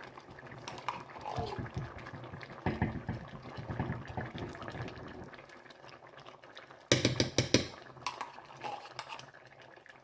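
Soup simmering and bubbling in a pot, with a short burst of rapid clattering from a utensil against the pot about seven seconds in.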